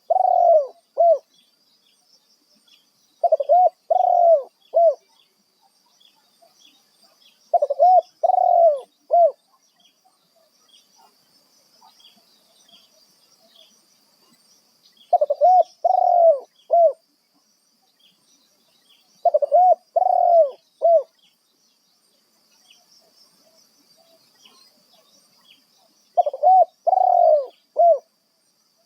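Spotted dove cooing: six phrases of about four low coos each, a few seconds apart, over a faint steady high-pitched hiss.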